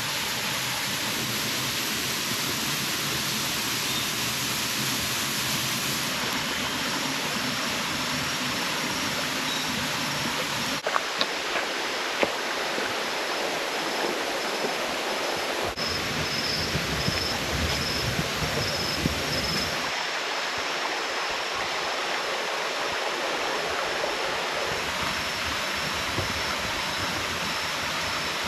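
Waterfall cascade and river water rushing steadily over rocks, a dense continuous roar of running water. Its character changes abruptly several times, about 6, 11, 16 and 20 seconds in.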